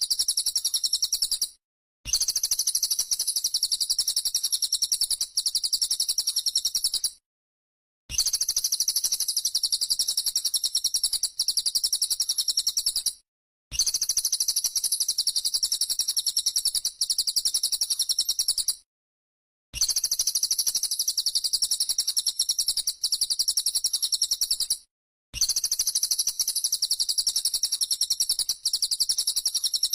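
A songbird's rapid, high-pitched burst call repeated in a fast stream of chirps, cut into segments about five to six seconds long with short dead-silent gaps between them, as in an edited training recording played to cage birds.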